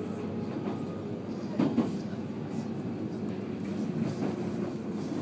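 Interior running noise of a JR East 719 series electric train: a steady rumble of wheels on rails, with two sharp knocks close together about a second and a half in.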